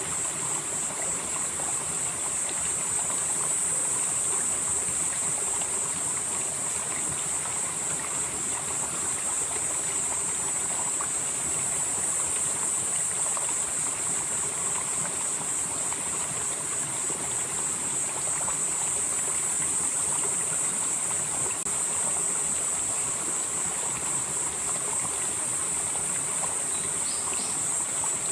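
Valley stream flowing steadily, with insects trilling continuously at a high pitch over the water, their song swelling and fading every several seconds.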